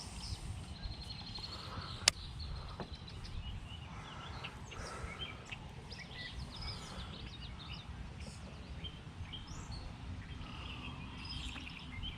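Small birds chirping and calling over a steady low rumble, with one sharp click about two seconds in.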